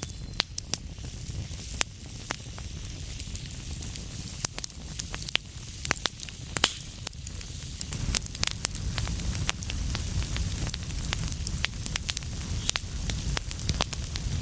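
Fireplace fire crackling: irregular sharp pops and snaps, several a second at times, over a steady low rumble and soft hiss of the flames. The loudest pops come about halfway through.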